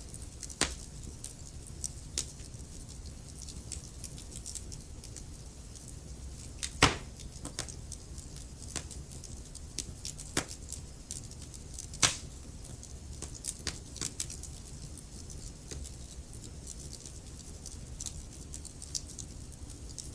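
Wood logs burning in a fireplace: a steady low rumble of flame with scattered crackles and pops, two sharp pops standing out about 7 and 12 seconds in.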